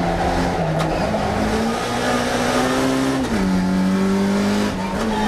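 Classic Mini race car's A-series four-cylinder engine running hard at racing revs. The note climbs steadily, drops sharply a little past halfway as the revs fall, holds level, then dips and starts rising again near the end.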